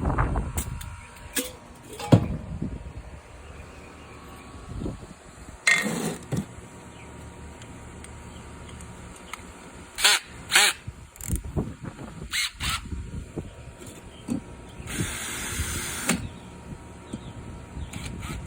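Plastic flower pots stuck together being handled and pulled apart: scattered knocks and clicks, with a short rustling hiss about fifteen seconds in.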